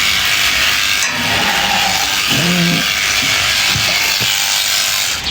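Electric sheep-shearing clippers buzzing steadily as they cut through fleece, with a short low call about halfway through.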